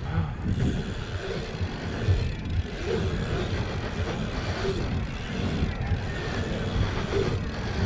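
Wind buffeting the microphone of a helmet-mounted action camera while riding a BMX bike: an uneven low rumble with a rushing haze above it.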